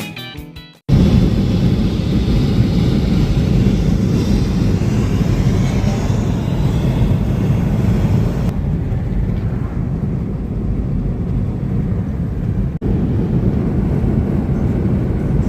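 Vehicle noise: a loud, steady low rumble, after a few strumming guitar notes that fade out in the first second. The higher hiss drops away about halfway through, and the rumble breaks off briefly for a moment near the end.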